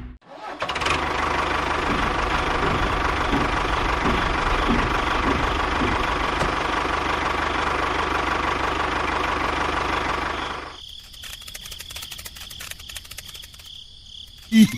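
A small motor running steadily, which stops about ten and a half seconds in, leaving quieter clicking and a faint high tone.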